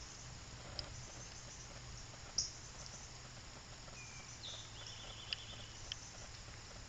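Faint outdoor background with a few short, high bird chirps and, about four and a half seconds in, a brief high trill. Two sharp clicks follow soon after.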